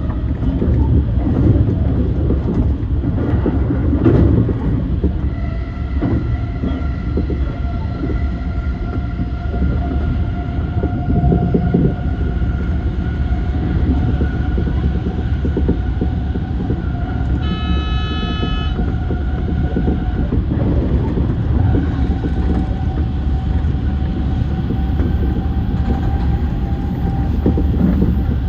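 E235 series electric train running along the line: a continuous low rumble with steady motor whine tones. A short horn sounds about two-thirds of the way through.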